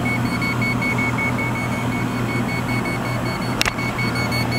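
Klein non-contact voltage tester beeping rapidly: a high, steady-pitched beep pulsing several times a second, its signal that it has detected live voltage. A single sharp click comes a little past the middle.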